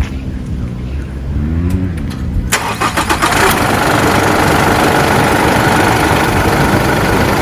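Car engine running, its pitch rising and then falling, then about two and a half seconds in a sudden loud, steady rushing of engine and road noise, with a brief run of rapid pulses at the change.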